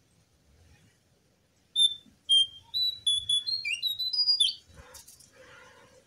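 A jongkangan bird singing: a quick run of a dozen or so clear, high whistled notes, some sliding up or down, starting about two seconds in and lasting nearly three seconds. A short rustling whoosh follows near the end.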